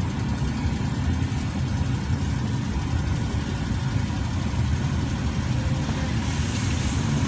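Steady low engine hum and road noise heard inside the cabin of a moving vehicle, with a rise in hiss near the end.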